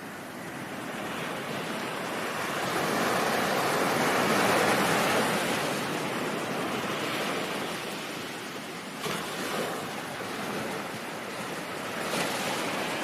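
Ocean surf: a wave swells up to its loudest about four or five seconds in and slowly washes back, with smaller surges near the end.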